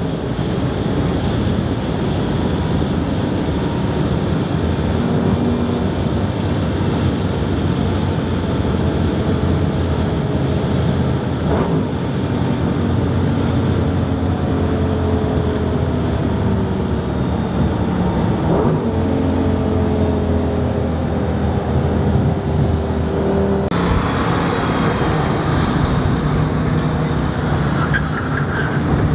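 Lamborghini Gallardo Superleggera's V10 engine heard from inside the cabin, running at a steady cruise with road noise, its note drifting slowly in pitch. Near the end the engine note starts to rise as the car accelerates.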